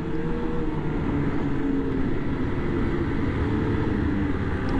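Ski-Doo MXZ Blizzard 600R snowmobile's two-stroke engine running steadily while riding on the trail, its pitch drifting slightly up and down.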